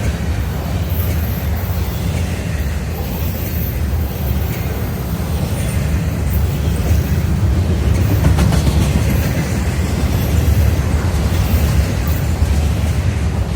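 Train rolling past, a steady low rumble of the cars on the rails.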